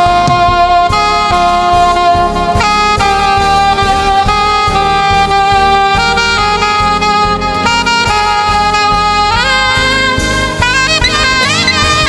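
Saxophone playing a slow gospel worship melody in long held notes over the band, with drums underneath. Near the end the lead line slides and wavers.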